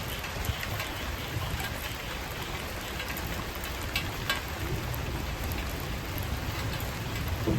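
Wood fire burning under a grilling mackerel: a steady hiss with a sharp crackle or pop now and then.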